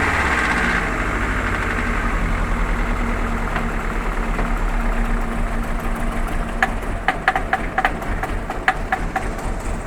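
Fiat Bravo car engine dropping back from a rev in the first second, then idling steadily. About seven seconds in, sharp irregular clicks begin over the idle. The owner reports that the engine shakes at idle and makes a 'pac' noise.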